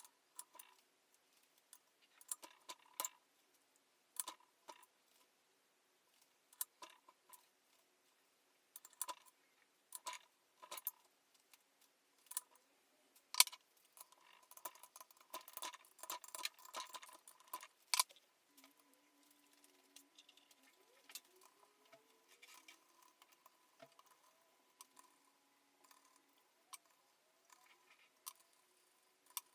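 Scattered light metallic clicks and clinks of hand tools and engine parts being handled, with a busier stretch of clinking in the middle.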